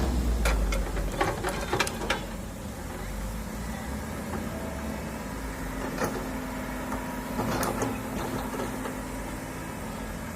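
Hydraulic excavator's diesel engine running, louder for the first two seconds and then easing off. A quick cluster of knocks comes in the first two seconds, with more knocks about six and eight seconds in.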